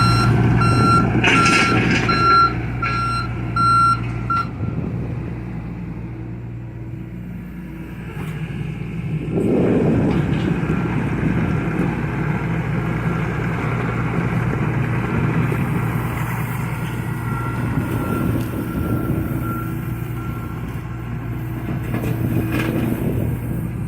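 Diesel engine of a John Deere excavator running steadily under work, getting louder about ten seconds in. Over it the machine's travel alarm beeps repeatedly for the first few seconds, then again faintly later on.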